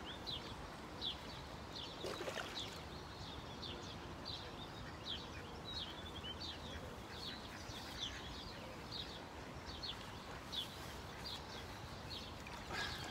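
A small bird chirping over and over, short high notes about two a second, over a steady hiss of outdoor background noise.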